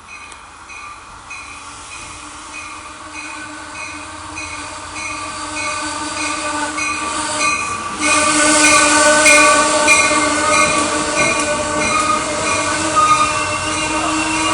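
Shoreline East commuter train pulling into the station, its bell ringing in a steady beat of about one and a half strokes a second and growing louder as it comes in. About eight seconds in the sound jumps louder as the cars roll past, with steady squealing tones from the wheels and brakes.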